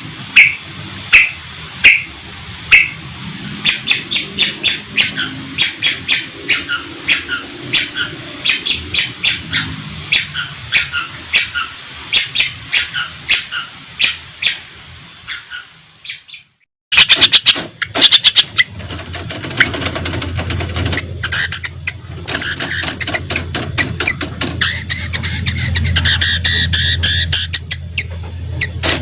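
A long-tailed shrike (cendet) calls in harsh, sharp repeated notes, at first spaced about two a second, then faster and higher. The recording breaks off for a moment about halfway through, then resumes with a denser run of rapid chattering over a low hum.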